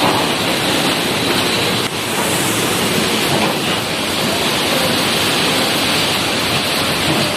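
Tropical storm: a loud, steady rushing of wind and rushing water with no letup.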